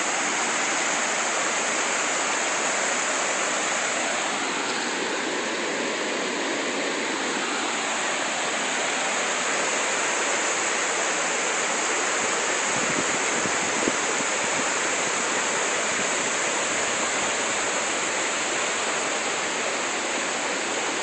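Fast-flowing floodwater rushing steadily, a dense continuous wash of water noise; a deeper rumble joins in about two-thirds of the way through.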